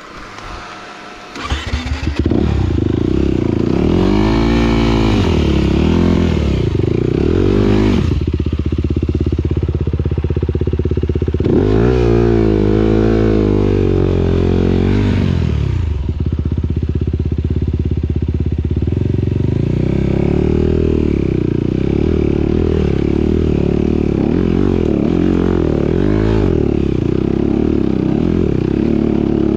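Motocross motorcycle engine, loud, coming in suddenly about a second and a half in and then running with its pitch rising and falling again and again as it is revved.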